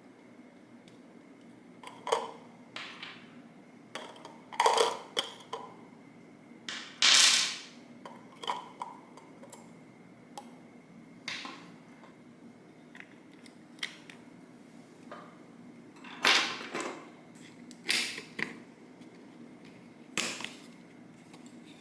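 Workshop handling noises: about a dozen irregular knocks, clicks and short clattering scrapes of tools or parts being set down and worked, over a faint steady hum.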